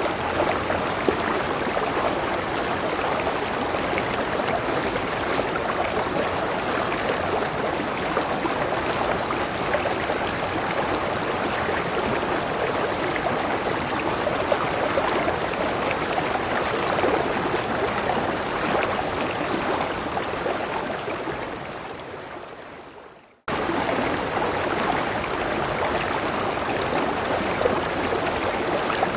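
A clear river stream flowing steadily. About twenty seconds in the water sound fades away to a moment of silence, then cuts straight back in at full level.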